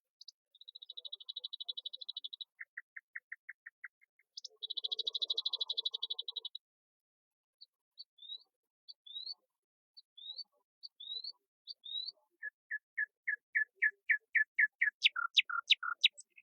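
Birdsong in a series of varied phrases: buzzy rapid trills, a run of short clipped notes, then a string of short upslurred whistles about twice a second. Near the end it becomes a quickening series of notes that grows louder and ends in lower, falling notes.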